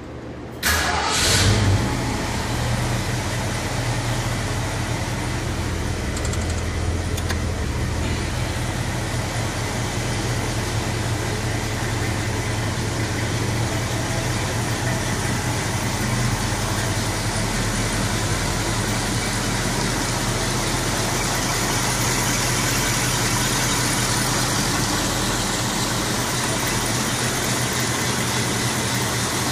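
1966 Ford Mustang engine starting about half a second in, surging briefly as it catches, then settling to a steady idle.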